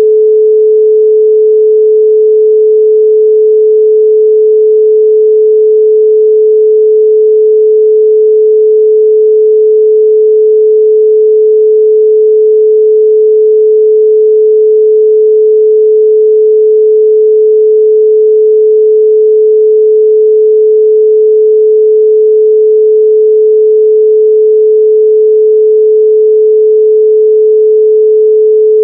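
A 432 Hz pure sine tone held steady and unbroken at a constant level.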